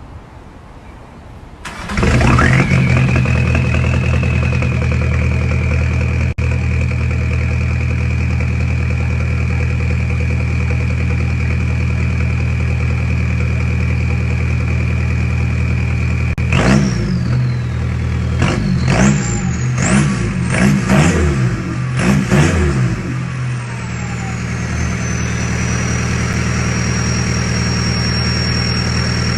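2003 Volkswagen TDI turbodiesel engine starting from cold about two seconds in, then idling steadily with a high whine. Past the middle it is revved in a quick run of six or seven blips, each with a rising whistle, then settles back to idle as a high whine slides down and holds.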